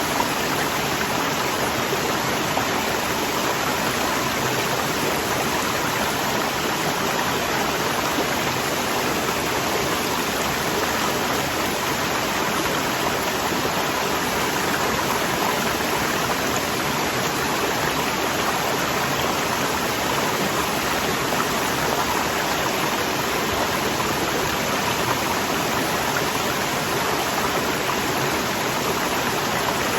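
Waterfall: water rushing and falling in a steady, unbroken hiss that does not change.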